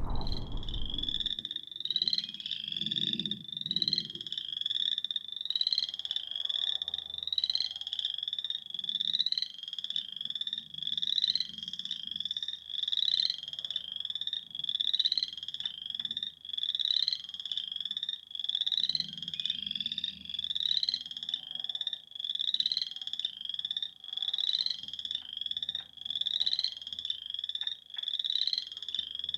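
Frogs calling, one high rising call repeated over and over at about two a second, with fainter calls lower down beneath it.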